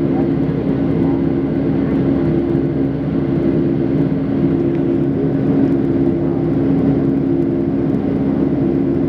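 Steady drone of a jet airliner heard from inside the passenger cabin: a constant rumble of engine and air noise with two steady low hums, unchanging in level.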